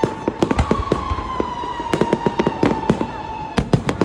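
Fireworks going off in rapid volleys of sharp bangs and crackles. A steady high whistling tone sounds throughout beneath the bursts, drifting slightly lower.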